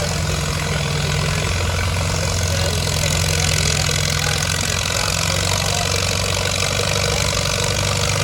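Antique tractor engine running steadily at low speed, with an even low drone that neither revs up nor dies down.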